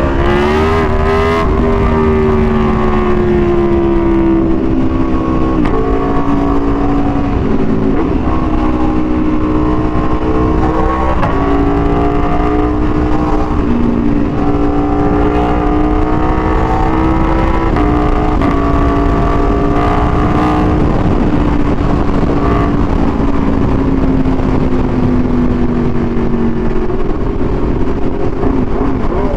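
Aprilia Tuono V4 1100's V4 engine through an SC-Project exhaust, riding along at fairly steady revs, its pitch stepping up or down every few seconds as the revs change, over a low rumble.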